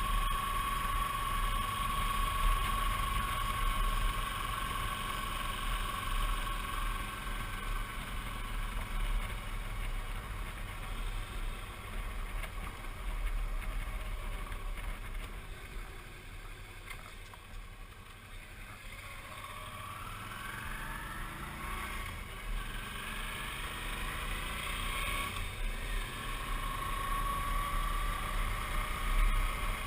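Suzuki V-Strom 650's V-twin engine running under way, with wind rush. The engine note fades to its quietest a little past the middle, then climbs in pitch as it pulls again.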